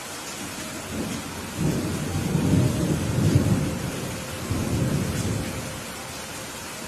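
Steady rain with a rumble of thunder that builds about a second in, peaks near the middle, swells once more and dies away near the end.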